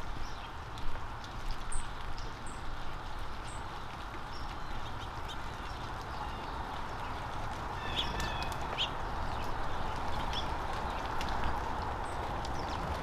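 Small birds giving short, high chirps here and there over a steady outdoor background hiss, with a few sharp knocks in the first two seconds.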